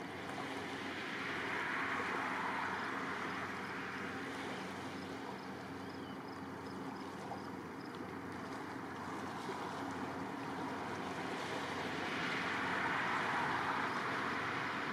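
Distant approaching passenger train: a faint steady diesel locomotive hum under a steady outdoor hiss that swells about two seconds in and again near the end.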